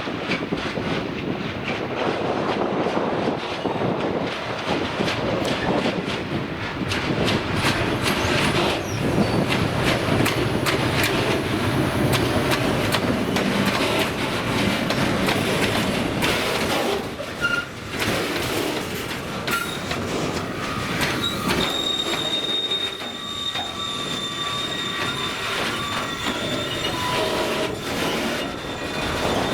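A train rolling past, its wheels clicking over the rail joints over a steady rumble. From about two-thirds of the way in, thin high wheel squeals join the noise.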